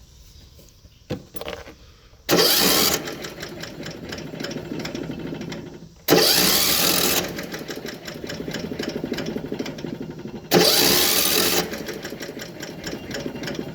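Electric starter cranking a Troy-Bilt riding mower's engine in three long attempts with brief breaks between them, each starting with a loud burst; the engine turns over fast and even but never fires. The mechanic suspects it was run low on oil and has lost compression.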